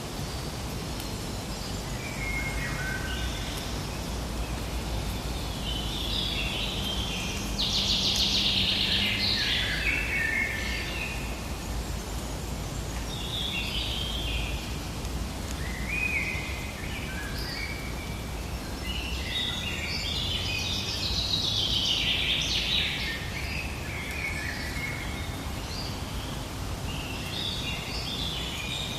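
Forest ambience: a steady low rumble and hiss under songbirds singing phrase after phrase, the loudest bursts of song about a quarter of the way in and again past the middle.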